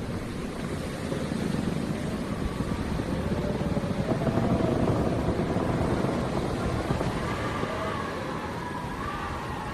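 Howling wind, a low rumbling gust with thin whistling tones that waver up and down in pitch, swelling a little about halfway through.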